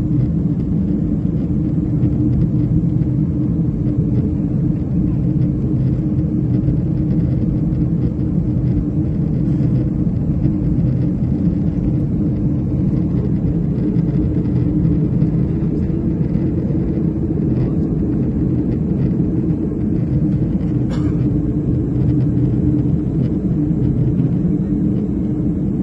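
Steady, unbroken low drone of an airliner's engines and airflow, heard inside the passenger cabin in flight.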